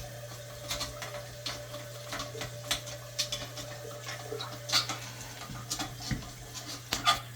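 Metal ice pick clicking and scraping against the porcelain of a toilet as its holes are picked clean, a string of small sharp clicks with two louder ones near the middle and end, over a steady low hum.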